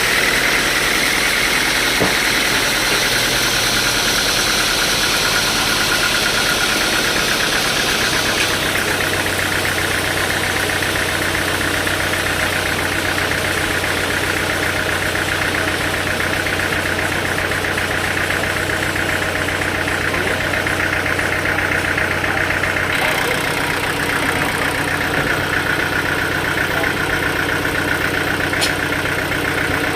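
Sawmill saw running and cutting through a hardwood log, a steady loud machine noise with a high whine on top. Its pitch and tone change about a third of the way in and again about three quarters of the way through.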